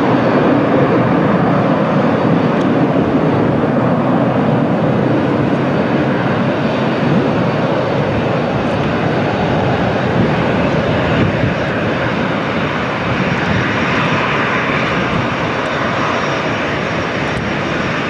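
Aircraft engine noise at an airport: a loud, steady rush whose higher hiss grows stronger over the last few seconds.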